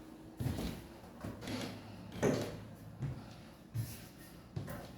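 Footsteps going up a flight of stairs indoors: a handful of irregular thumps and knocks, roughly a second apart.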